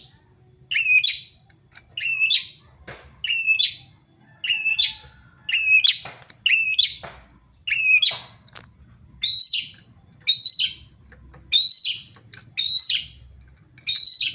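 A wild songbird calling over and over, one short chirping phrase about every second, each with a quick up-and-down note.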